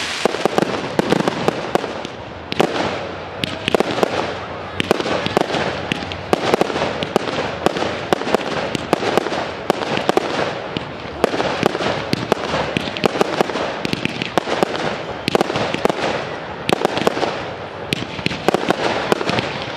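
Professional fireworks display: aerial shells launching and bursting one after another, with many sharp bangs packed closely together throughout over a continuous crackling din.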